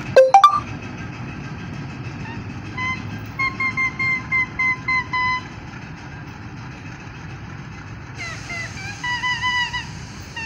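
Freight wagons rolling away along the track, a steady low rumble. A loud knock right at the start, then a run of about eight short, evenly spaced high tones, and more wavering tones near the end.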